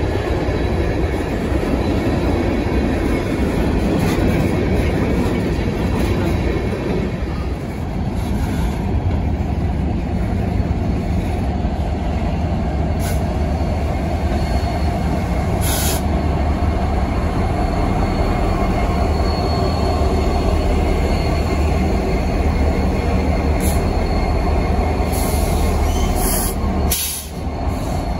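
Freight train rolling past close by: hopper cars give a continuous rumble of steel wheels on rail, with thin steady squeals and a few sharp ticks above it. In the second half the deep drone of the CN diesel locomotives grows as they pass.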